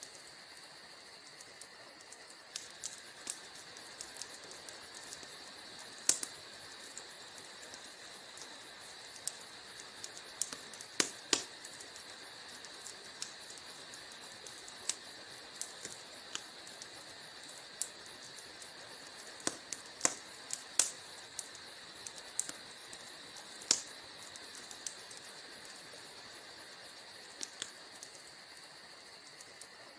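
Wood fire crackling in a fireplace: irregular sharp pops and snaps, a handful much louder than the rest, over a steady soft hiss.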